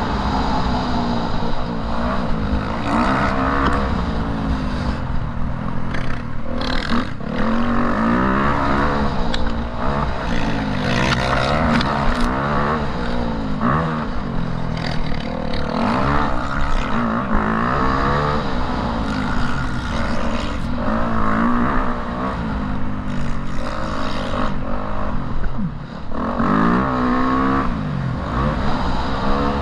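Motocross bike engine revving up and down again and again, the pitch rising and falling with the throttle, with a brief drop about 26 seconds in.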